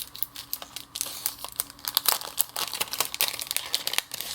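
Crinkling and rustling of paper and plastic craft supplies being handled, with many small irregular clicks.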